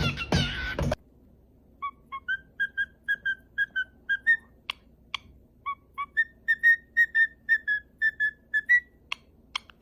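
A pet parrot whistling a tune in a series of short, clear notes, two or three a second, with a few sharp clicks between them. Music plays for about the first second, cutting off before the whistling starts.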